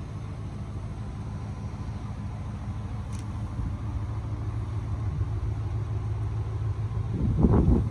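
Steady low rumble of a vehicle driving on a snowy road, growing slowly louder, with wind buffeting the microphone near the end.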